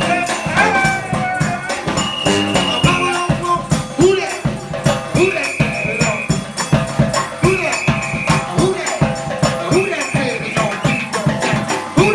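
New Orleans brass band playing live, with a busy rattling percussion beat under short sliding low notes. From about halfway through, a held high note recurs every couple of seconds.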